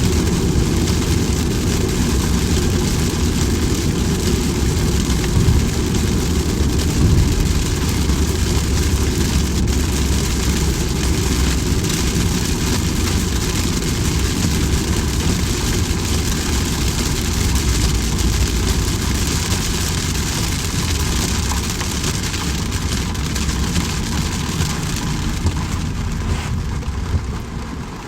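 Steady rain falling, with a strong deep rumble beneath it that eases off near the end.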